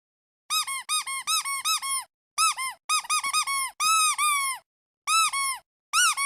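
Squeaky duck toy being squeezed again and again in quick bursts of short squeaks, each one rising and then falling in pitch. Some squeaks are drawn out longer, with brief pauses between the runs.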